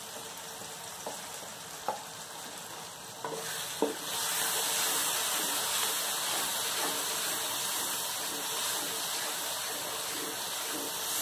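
Onion, tomato and ground spices with ginger-garlic paste sizzling in hot ghee in an aluminium pot while being stirred with a wooden spoon: the masala is being fried (bhunao). There are a few light clicks of the spoon in the first four seconds, and about four seconds in the sizzle grows louder and stays steady.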